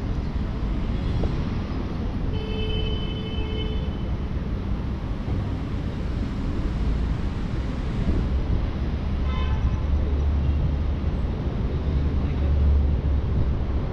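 Urban traffic rumble, steady and low, growing heavier in the second half as a vehicle passes close. A short pitched tone sounds about two seconds in, and a briefer one a few seconds before the heavy passage.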